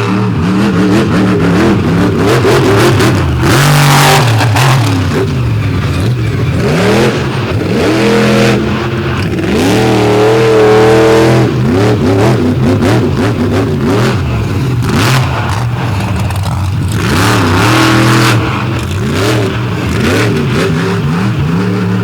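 Monster truck engine revving hard and falling off again and again, its pitch climbing and dropping as the throttle is worked. There are loud rushing bursts about four seconds in and again near seventeen seconds.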